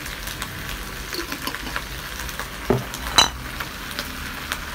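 Lettuce sizzling with a steady hiss as it is stir-fried in a wok, with small ticks and scrapes from stirring. Two louder knocks come about three seconds in, the second with a brief metallic ring.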